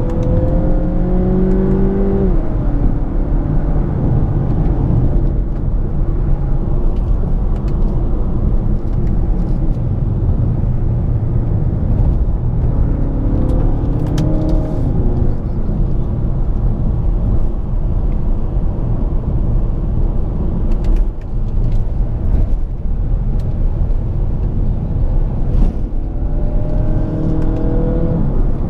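2017 Mazda 6's four-cylinder engine and road noise heard inside the cabin during spirited driving on a winding road: a steady low rumble, with the engine note rising under acceleration three times, near the start, about halfway through and near the end.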